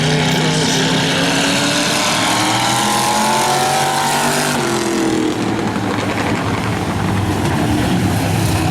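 Race car engines running hard on a speedway oval, several at once; one engine's pitch climbs for about four seconds and then drops sharply, as it lifts off or goes past.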